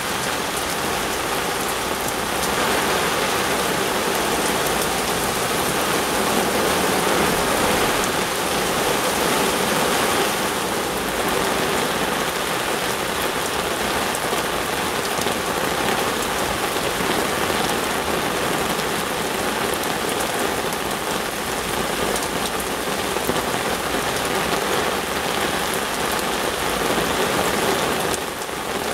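Torrential rain pelting down onto the canal's water surface, a dense, steady hiss of downpour.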